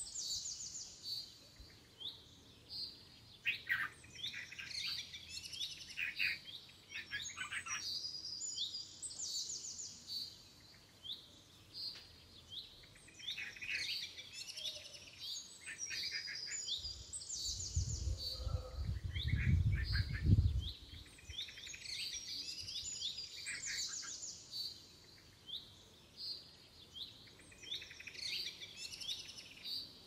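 Small birds chirping in short, quick, high-pitched trills, repeated every second or two. About two-thirds of the way through comes a low rumble lasting a few seconds, the loudest sound.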